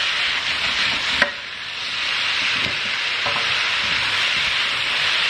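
Meatballs and chopped peppers, courgette and onion sizzling as they brown in a hot pan, stirred with a wooden spatula, with one sharp knock about a second in.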